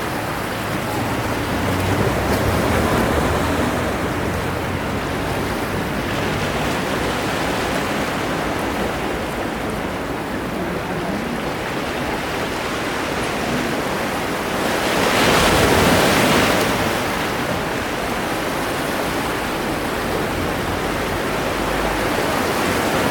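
Sea waves washing ashore: a steady rush of surf that swells twice, most strongly about fifteen seconds in.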